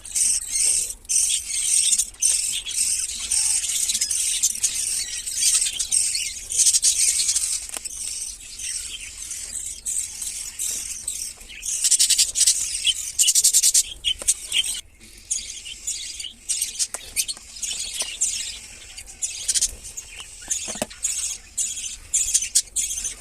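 Lovebirds' high-pitched squealing and chirping, continuous and rapid, with an especially fast run of calls about twelve seconds in.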